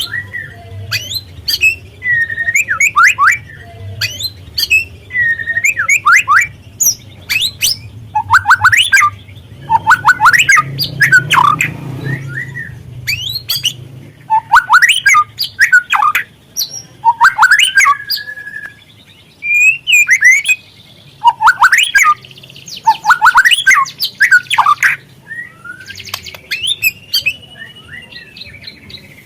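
White-rumped shama calling: clusters of quick, sharp down-sweeping chirps and harsh rattling notes, with short pauses between the bursts, over a faint low hum.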